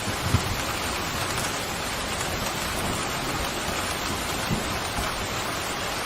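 Steady rain falling as an even hiss, with a few brief, louder low taps of heavier drops landing close by, the first about a third of a second in.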